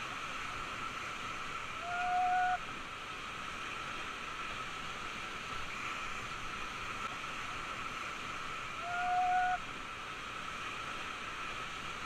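Steady rush of a whitewater river. Two short, flat held tones, each under a second, sound about two seconds in and again about nine seconds in.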